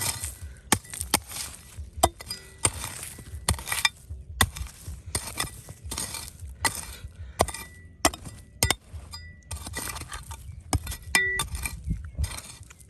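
Hard objects clinking and scraping against each other over and over, with sharp clicks every half second to a second and a scraping rustle in between.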